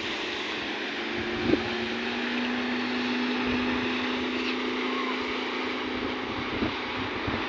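Wind buffeting the microphone and water rushing past a moving motorboat, with a steady low engine drone for a few seconds in the middle.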